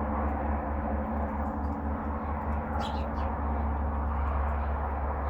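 A few short, high bird chirps about three seconds in, over a steady hiss of rain with a low rumble beneath.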